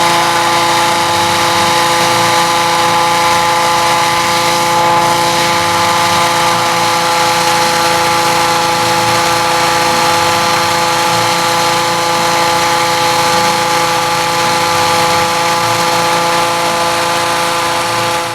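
A machine motor running steadily with a constant whine over a rushing hiss, fading out at the very end.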